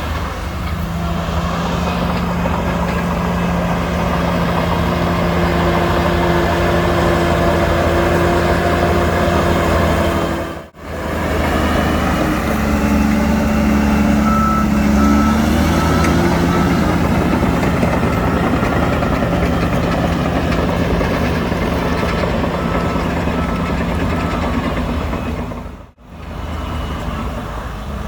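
Heavy diesel engines of a bulldozer and dump truck running steadily, with a reversing alarm beeping repeatedly through the middle stretch. The engine pitch shifts for a few seconds as it works, and the sound breaks off briefly twice.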